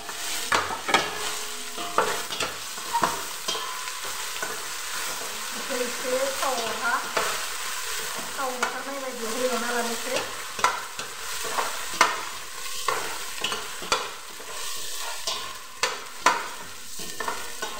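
Whole spices frying in oil in a stainless steel pot, a steady sizzle, while a metal spoon stirs and scrapes against the pot with sharp clinks every second or so.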